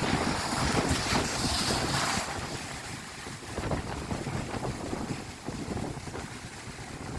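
Ocean surf rushing and washing over the rocks around Thor's Well's sinkhole, louder for the first couple of seconds and then easing off as the water drains back. Wind buffets the microphone.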